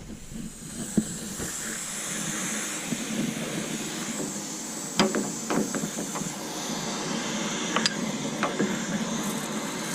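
Water rushing out of an electric water heater's tank through its opened drain valve into a garden hose, a steady hiss that builds over the first couple of seconds. A few sharp knocks come through over it.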